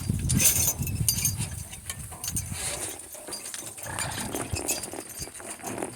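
Donkey harness and cart hardware clinking and jingling in many short, irregular clicks as the harnessed team walks on.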